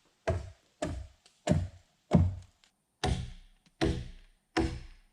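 Axe chopping into a log with steady, evenly spaced swings. Seven sharp strikes, about one every two-thirds of a second, each with a short woody ring.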